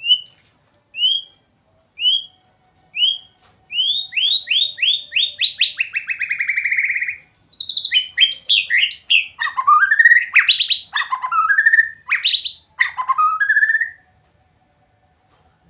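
White-rumped shama singing: four separate rising whistles about a second apart, then a quickening run of rising notes that runs into a trill, then a loud, varied string of swooping whistled phrases that stops a little before the end.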